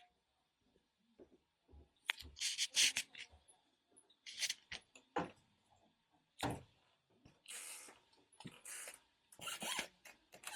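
Scattered short rustles and light knocks of small items and fabric being handled, with a faint steady high-pitched hum underneath.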